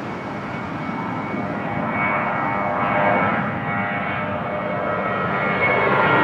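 Jet airliner's engines on takeoff climb-out: a steady rumble with a whining fan tone, growing louder toward the end.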